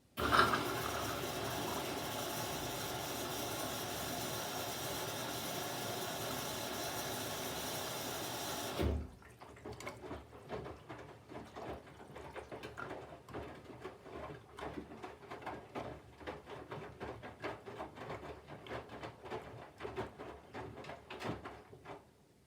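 Candy GVF4 washing machine taking in water: the fill valve opens with a steady rush of water that cuts off abruptly after about nine seconds, then water trickles and splashes in the drum.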